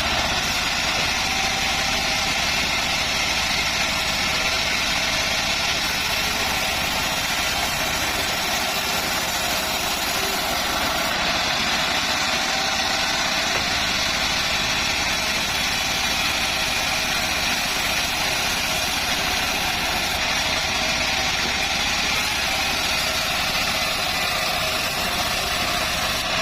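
Home-built bandsaw mill running steadily, its motor and blade making a continuous, unchanging machine drone.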